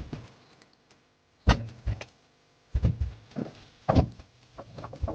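A series of about eight heavy thuds and knocks at irregular intervals, each one short, some with a low boom.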